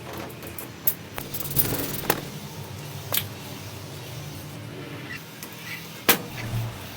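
Sharp clinks and knocks of hand tools and metal engine parts being handled, about five spread unevenly, over a low steady hum.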